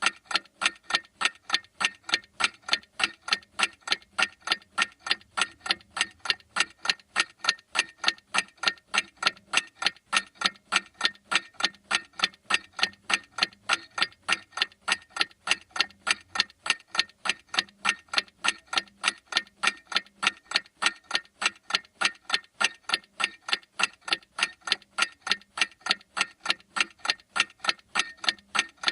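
Clock mechanism ticking steadily: sharp, evenly spaced ticks, a few a second, with no change in pace or loudness.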